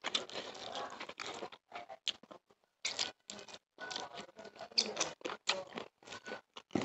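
Eating sounds of a man eating chicken curry and rice by hand: wet chewing and lip smacking in a run of short clicky bursts, with a brief pause about two and a half seconds in.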